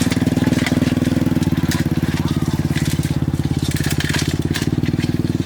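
A small engine idling steadily with a fast, even pulse, and some light clicks over it.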